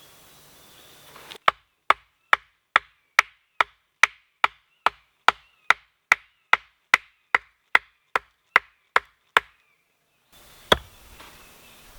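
Wood being chopped with an axe in an even run of about twenty strokes, roughly two and a half a second, followed by one last blow near the end.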